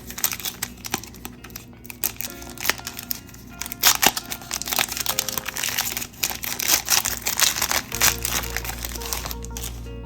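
Cellophane trading-card pack wrapper crinkling and being torn open in dense, irregular crackles, over background music.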